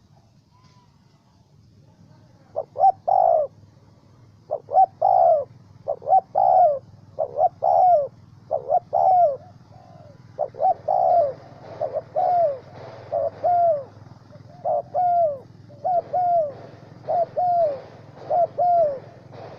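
Spotted dove cooing over and over. The cooing starts a couple of seconds in, in repeated groups of short falling coos about every one to two seconds, over a faint steady low hum.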